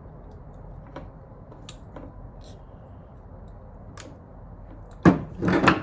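Faint, scattered clicks and ticks of a small metal fuel-line clip being worked with the fingers and pliers, which keeps refusing to go back on. Near the end comes a short, much louder burst of sound.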